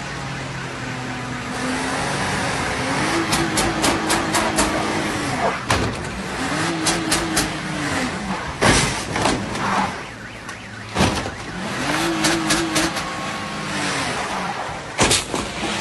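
An SUV's engine revving in three drawn-out bursts, each rising and falling over a couple of seconds, as the car tries to manoeuvre on an icy lot. Rapid sharp clicks and a few louder knocks come in between.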